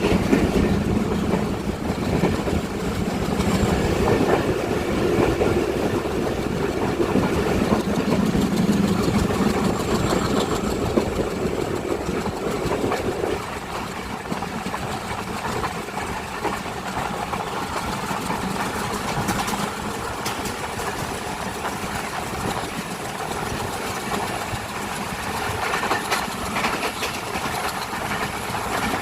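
Running noise of a moving train heard from on board: a steady rumble of wheels on rails with a low hum. The hum and rumble ease and the sound gets a little quieter about halfway through.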